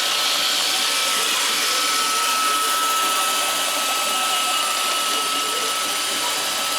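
iRobot Roomba 625 robot vacuum running: a steady whirring hiss with a thin, steady high whine over it.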